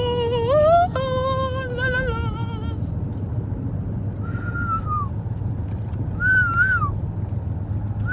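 Steady car road rumble inside the cabin. A held, wavering sung note breaks off about three seconds in. Then come two short rising-and-falling whistles from a yellow-naped amazon parrot, about two seconds apart.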